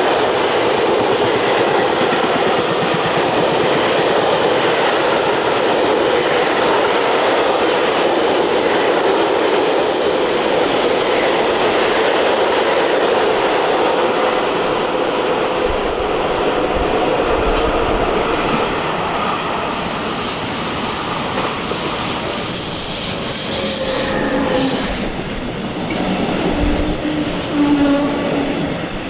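A long freight train of loaded flat wagons rolling through the station with a steady rumble and wheel clatter, fading after about twenty seconds. Near the end, a few steady tones come in as a double-deck metronom regional train comes alongside the platform.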